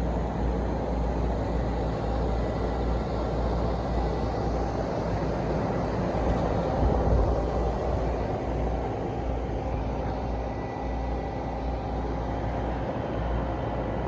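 Heavy engine of the lifting crane running steadily under load while it hoists the new rooftop HVAC unit, a continuous low rumble.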